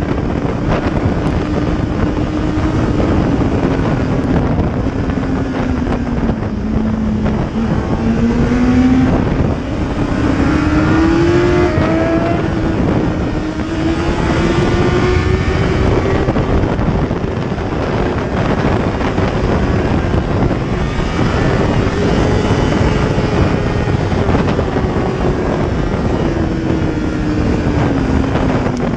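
A car driving, with steady road noise and an engine note that slowly falls and rises in pitch.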